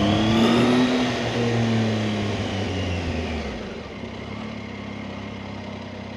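Motorcycle engine under way, its note rising for about a second as it pulls, then falling away as the throttle eases, settling to a quieter, steady running sound in the second half.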